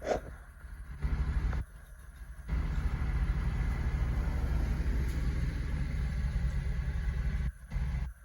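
Steady low rumble of a car's engine and cabin, heard from inside the vehicle. It cuts out sharply for a moment near the start, again about two seconds in, and once more near the end.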